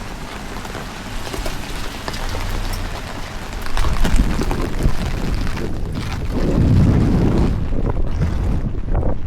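Heavy rain falling, an even hiss with many small drop ticks. About four seconds in, strong gusts of wind buffet the microphone with an uneven low rumble that is loudest near the end.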